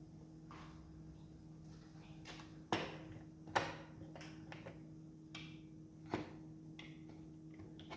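Three sharp knocks, about a second and then two and a half seconds apart, with a few fainter ticks, over a steady low hum.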